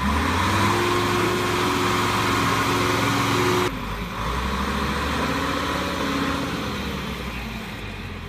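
Heavy diesel truck engine running steadily, then cutting suddenly about four seconds in to another engine sound whose pitch rises and falls gently.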